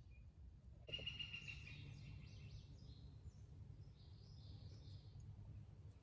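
Faint outdoor ambience: a low steady background hum with small birds chirping, starting about a second in.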